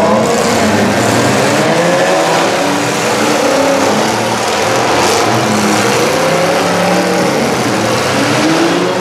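Several demolition derby cars' engines revving hard together, their pitches rising and falling over one another in a continuous loud din.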